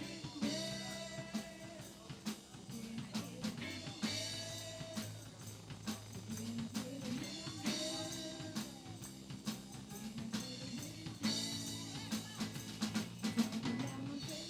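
Live band playing with a drum kit keeping a steady beat under held instrument chords.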